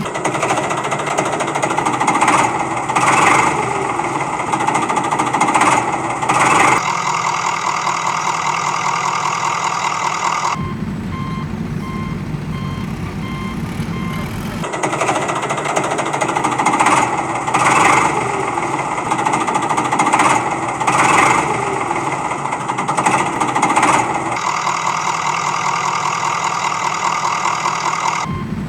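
Heavy construction-vehicle engine running with bursts of rattling knocks. The sound pattern repeats about every 14 seconds, like a looped sound-effect track.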